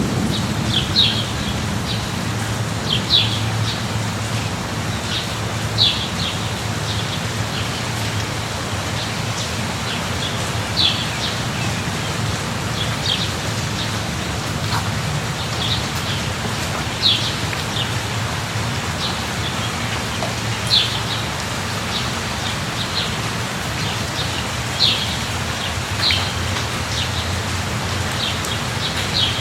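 Steady rain falling with a low rumble underneath, while a bird repeats a short, high chirp about every two seconds.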